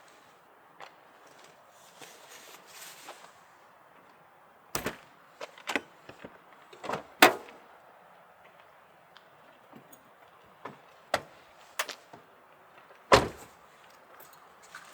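Scattered knocks and clunks of things being handled, with two sharp bangs about seven and thirteen seconds in, like a vehicle or camper door being shut.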